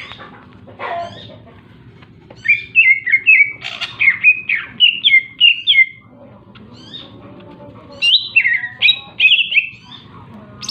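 A cucak ijo (green leafbird) singing vigorously in quick runs of chirpy, whistled notes: one phrase of about three seconds starting about two and a half seconds in, and a shorter one near the end.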